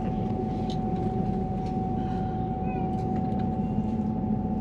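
Cabin noise inside a Transwa WDA-class diesel railcar running at speed: a steady low rumble with a constant high whine over it.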